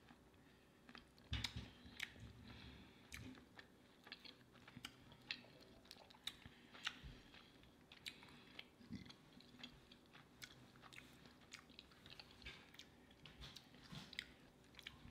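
Quiet close-up chewing of a Reese's Overload soft-serve dessert, with many small sharp clicks scattered through it as a plastic spoon dips into the cup and spoonfuls are eaten.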